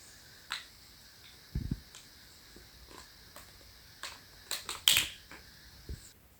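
Small plastic micro building blocks clicking and tapping as they are handled and pressed together, in irregular single clicks. A dull thump comes under two seconds in, and a quick run of sharper clicks follows past the middle, the loudest about three quarters through.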